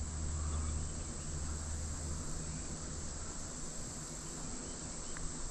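Steady high-pitched trilling of a summer evening insect chorus, crickets, under a faint low rumble that fades about two seconds in.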